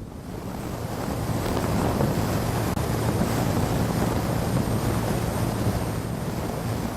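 Wind rushing over the microphone of a moving motorcycle, with a steady low engine drone underneath. It swells in over the first second or so.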